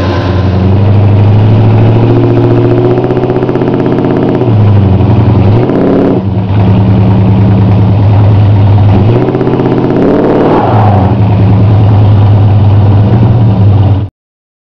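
A 1969 Plymouth Sport Satellite's 318 small-block V8 running on a cold start. Its engine speed swings down and back up about five seconds in and again about ten seconds in. The sound cuts off suddenly near the end.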